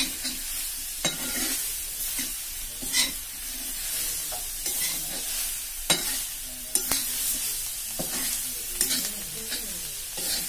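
Prawns sizzling in oil and masala in a pan over a wood fire, stirred with a spatula that scrapes and taps against the pan every second or two.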